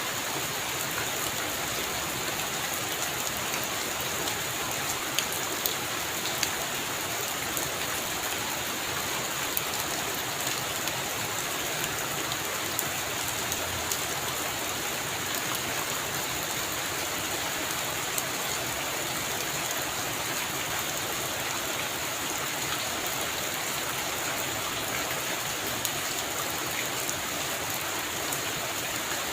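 Heavy rain falling steadily on a roof, a constant dense hiss with many small drop ticks scattered through it.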